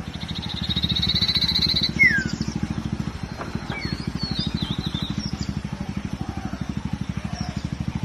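Common iora (sirtu) singing: a rapid buzzy trill, then a loud falling whistled note, followed by scattered short high notes. Underneath is a steady, fast, low pulsing.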